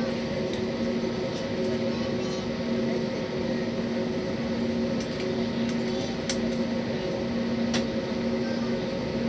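Steady cabin noise inside an Airbus A320 airliner: an even hum carrying a few steady low tones, with a few faint clicks between about five and eight seconds in.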